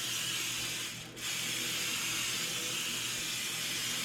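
Aerosol cooking spray hissing steadily as it is sprayed onto a pan, with a short break about a second in before spraying resumes.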